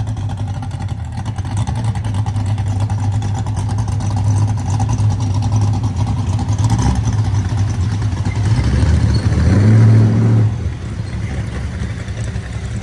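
A car engine running steadily, then revving up and growing louder about nine seconds in before dropping away suddenly a second or so later.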